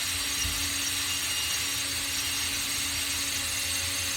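Power drill running steadily in reverse, backing a screw out of a wall-mount toggle anchor.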